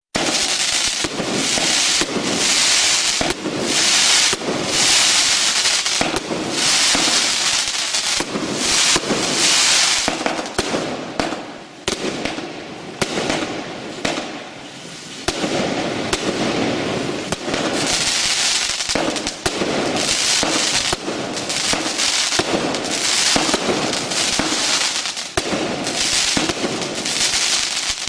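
Fireworks in a pyrotechnic show: dense, continuous crackling and popping, with hissing surges that each last a second or two, and a short lull about halfway through.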